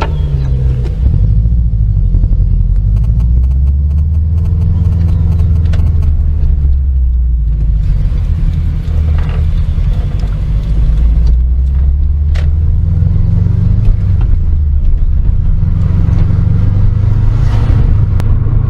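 Car engine and road rumble while driving: a loud, steady low drone whose pitch shifts a little as the engine speed changes.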